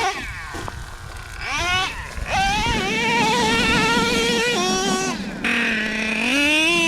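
Traxxas Revo 3.3's OS .21 two-stroke nitro engine on and off the throttle. It falls off at the start, revs up about a second and a half in and holds high, drops to a low, near-idle note a little past five seconds, then climbs again near the end.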